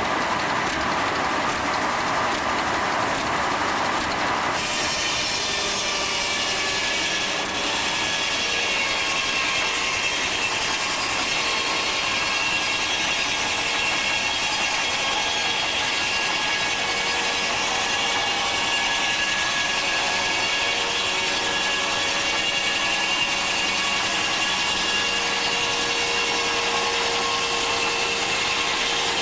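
Steam-driven sawmill saw cutting through a log: a steady, loud sawing noise with several held whining tones. A brighter, higher hiss joins abruptly about four and a half seconds in and keeps on.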